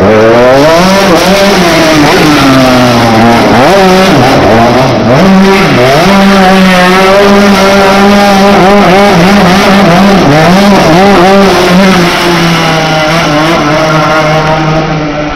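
A 175cc two-stroke motorbike engine on a home-built go-kart, revved hard. It rises and falls several times, holds at high revs for several seconds, then drops to a lower pitch near the end.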